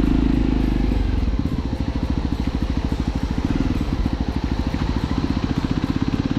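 Motorcycle engine running at a steady speed, heard as a rapid, even low pulsing. Background music fades out over the first second.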